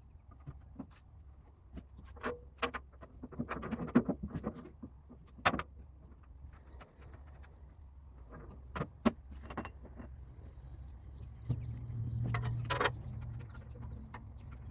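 Scattered metallic clinks and knocks from hand work on a roll-off truck's hydraulic cylinder, over a steady low hum. A louder low hum swells briefly about twelve seconds in.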